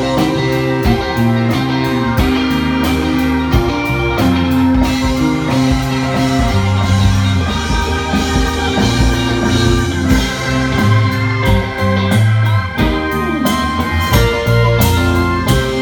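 Live psychedelic rock band playing an instrumental passage: electric guitar lines over bass and a steady drum-kit beat.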